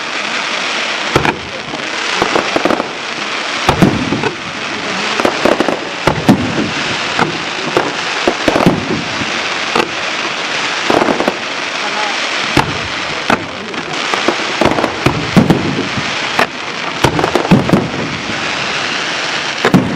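Fireworks display: a dense, continuous crackle with many sharp bangs from bursting shells, coming in clusters every second or two.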